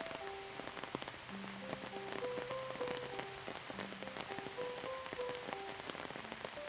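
Steady rain with many separate drops ticking on a surface, under a soft, slow melody of held notes.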